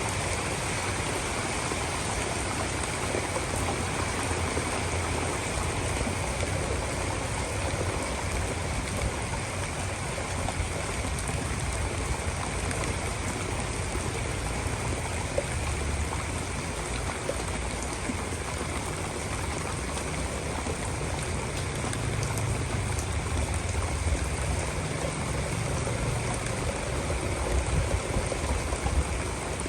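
Heavy rain pouring steadily in a storm, with a low rumble that comes and goes and grows louder near the end.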